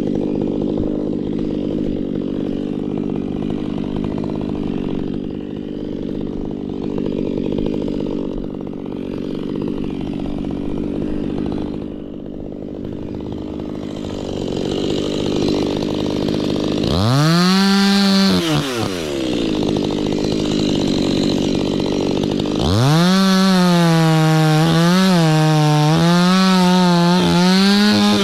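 Chainsaw running steadily at low speed, then revved hard about two-thirds in and let back down. It revs up again near the end and holds at full speed, its pitch dipping and recovering again and again as the chain bites into the wood.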